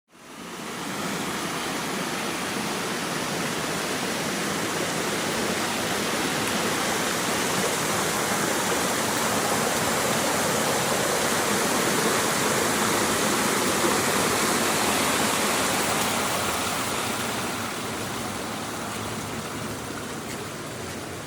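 Creek water rushing and cascading, a steady wash that grows a little louder toward the middle and eases off near the end.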